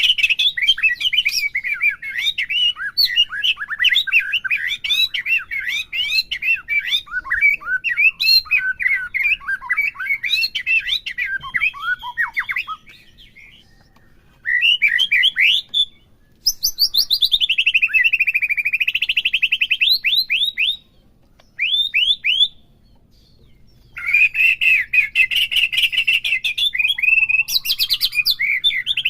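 White-rumped shama (murai batu) singing a fast, varied song of rich whistles and chirps, continuous for about the first half, then in separate phrases with short pauses, including a long rapid trill that dips and rises again in pitch past the middle.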